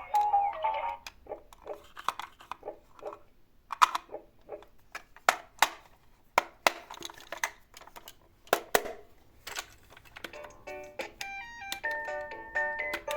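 Die-cast toy cars and their boxes being handled, making scattered sharp clicks and knocks. About ten seconds in, a plinky electronic melody starts.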